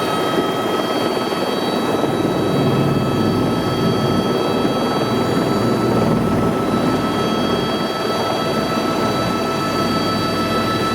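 Helicopter running steadily: its turbine and rotors make an even dense noise laced with several steady high whining tones.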